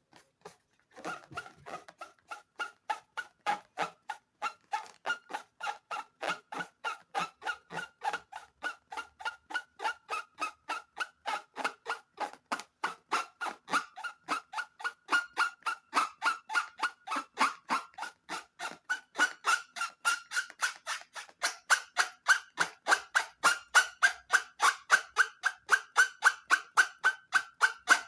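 Rubber balloon squeaking in a fast, regular rhythm, about three short squeaks a second at a steady pitch, growing louder in the last third.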